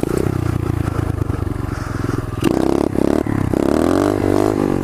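Pit bike engine running while being ridden, its revs steady at first and then rising and falling in the second half, with a sharp click about halfway through.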